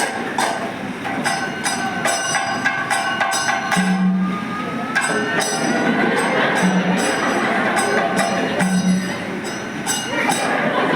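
Kathakali accompaniment music: quick, dense percussion strokes with ringing tones, and short held low notes every couple of seconds.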